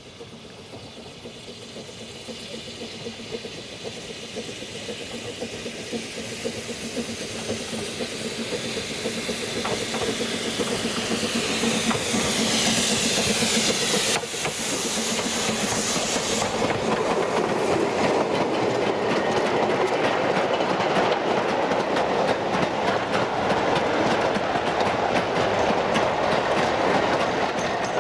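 Narrow-gauge steam train approaching, growing louder over the first twelve seconds, then a steady clickety-clack of wheels on rail joints as the coaches and wagons pass. A hiss of steam runs with it until about sixteen seconds in.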